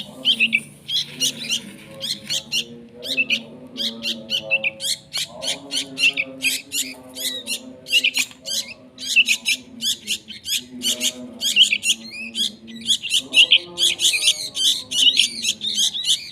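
A pet bird chirping rapidly: a dense run of short, high chirps, busiest near the end, over lower sustained tones that come and go every few seconds.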